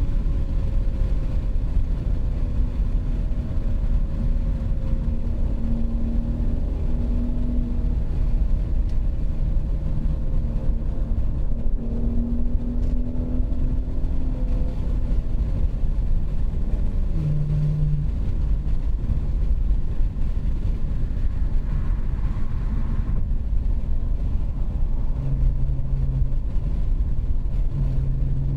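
BMW 540i's B58 3.0-litre turbocharged inline-six running with the muffler deleted while the car is driven, heard as a steady low exhaust drone over road rumble. The engine note drifts slowly up and down with light throttle changes.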